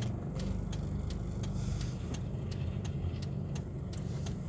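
First-generation Toyota Vios driving slowly: a steady low engine and road drone with light regular ticks about three times a second. No creak comes from the front strut mounts on the turn, now that the worn mounts have been replaced.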